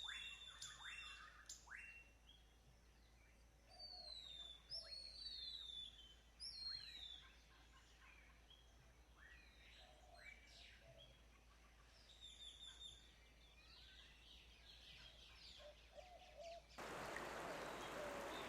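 Faint birdsong ambience: scattered short chirps that fall in pitch, busiest in the first several seconds and sparse later. Near the end a steady, even rushing noise comes in.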